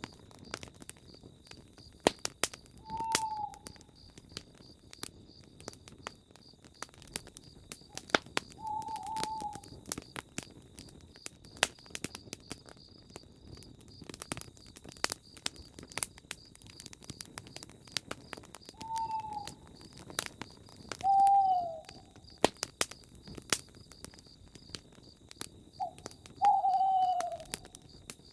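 Campfire crackling and popping in sharp irregular snaps, with an owl hooting five times at intervals of several seconds, each hoot short and falling in pitch. A steady high, faintly pulsing chirring runs underneath.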